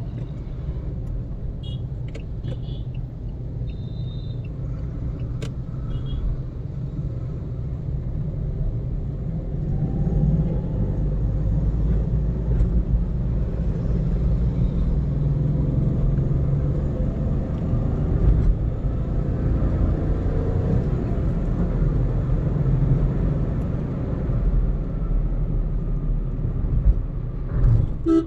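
Car driving on the road: a steady low engine and road rumble, with the engine note rising as it accelerates through the middle stretch. A few short high beeps come in about two to six seconds in.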